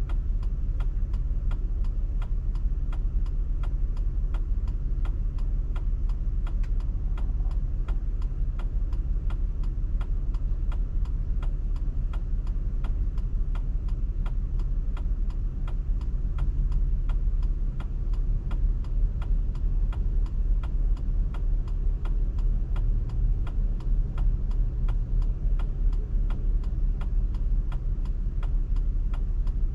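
Car driving: a steady low rumble of road and engine noise, with faint regular ticking about twice a second.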